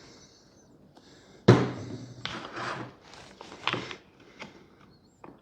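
Bench-work handling sounds: a sudden knock about one and a half seconds in, followed by rustling and a few smaller clicks and clunks.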